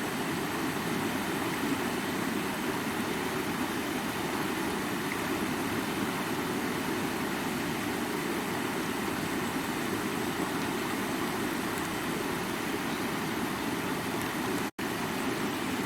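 Rushing stream water splashing over rocks, a steady, even rush. The sound cuts out for an instant near the end.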